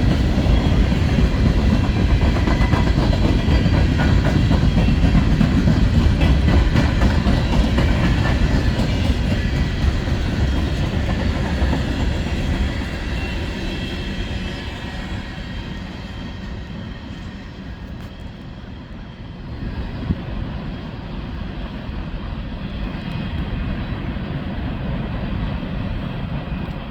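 A freight train of empty coal gondolas rolls past, with wheels clattering over rail joints and a low rumble. The sound grows quieter about halfway through, then picks up slightly again.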